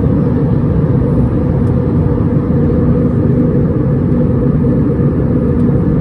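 Steady, loud cabin noise inside an Airbus A320-231: a constant low rumble from the IAE V2500 jet engines and airflow, with a faint steady hum through it.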